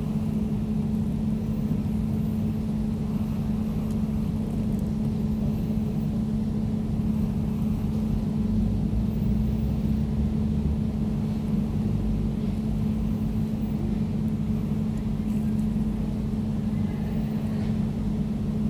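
Air conditioner running steadily: an unchanging low hum with one prominent low tone.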